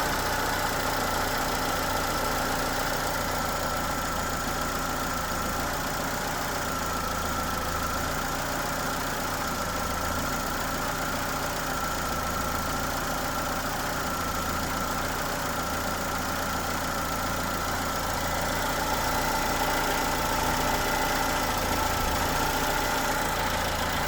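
Citroën C4's TU5JP4 1.6-litre 16-valve petrol four-cylinder idling steadily, cold after a start in near-freezing air, with a steady whining note above the idle. This is the engine noise the owner is recording at cold start.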